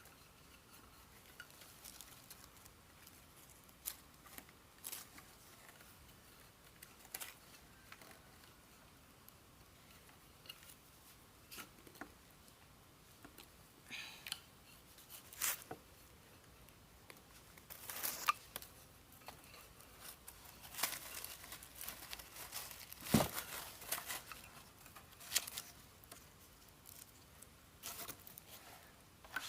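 Irregular crackling, rustling and snapping handling noises, busier in the second half, the loudest a sharp snap about three-quarters of the way through.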